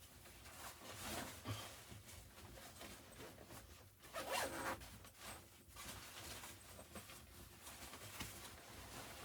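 A run of short rasping, scraping handling noises, loudest about four seconds in.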